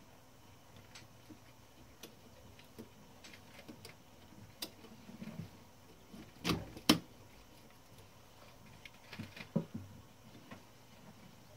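Small metal clicks and taps as a typebar is hooked into place on a 1912 Mercedes No. 3 typewriter, with two sharp, louder clicks close together just past the middle and a few more shortly after.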